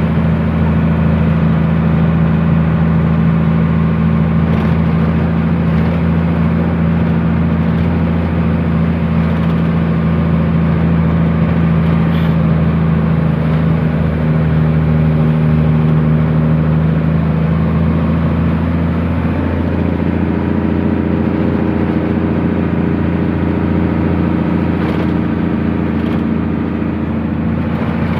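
Truck engine running steadily under way. Its note shifts to a different pitch about eighteen seconds in.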